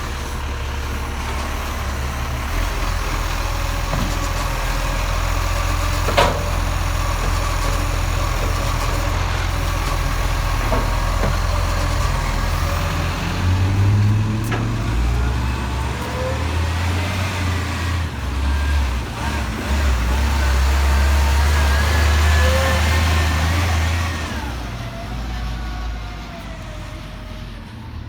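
Garbage truck's diesel engine running with a low steady rumble, then revving up with a rising whine as it drives off, fading over the last few seconds. A single sharp click sounds about six seconds in.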